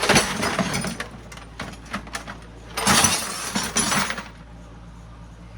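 Pieces of steel scrap clattering and clanking as they are dropped into a tote, in two bouts: one at the start and a second about three seconds in, ending a little past four seconds.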